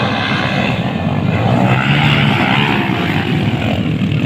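Motocross bike engines running and revving, a loud steady buzz that swells slightly in the middle.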